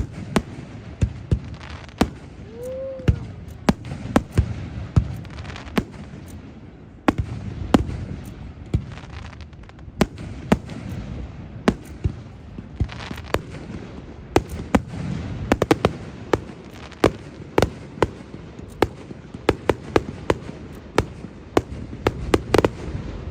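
Aerial fireworks display: a steady run of sharp bangs and crackles, several a second at its busiest, over a rolling rumble of distant bursts, with a brief whistle about three seconds in.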